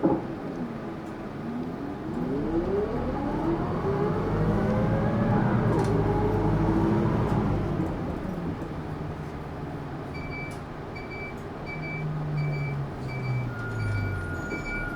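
Interior of an Isuzu Erga Mio bus with its four-cylinder diesel running. The engine and transmission whine rise in pitch over the first few seconds as the bus accelerates, then ease off and fall as it slows. A repeating electronic beep, about two a second, starts about two-thirds of the way through.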